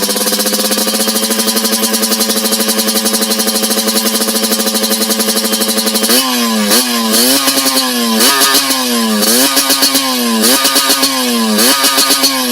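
Yamaha RX-King two-stroke single running through a chrome 'lobster' aftermarket exhaust, held at a steady raised idle, then blipped with a series of quick throttle revs from about halfway, each rising and dropping back.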